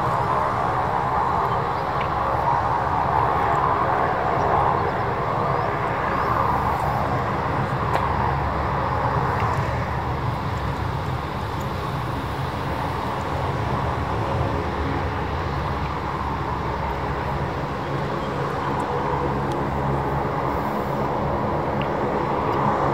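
Jet engines of a Boeing 737-800 running steadily: a low rumble under a steady whine that holds level, with no clear rise or fall.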